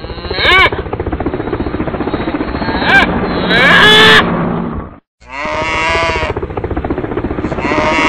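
Farm animals calling: a handful of short, pitched, rising-and-falling cries, the loudest about four seconds in. Under them runs a steady low drone with a fast pulse. The sound cuts out completely for a moment about five seconds in.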